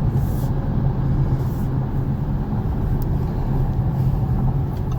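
Steady drone of a 2019 Audi S5 Sportback under way, heard from inside the cabin: the turbocharged V6 hums evenly under a bed of road and tyre noise.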